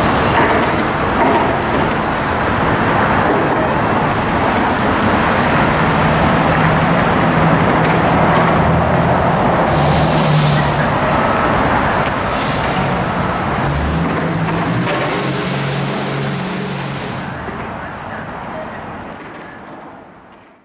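Freight train of coal hoppers rolling away down the track, mixed with road traffic as a car drives past. The sound fades out near the end.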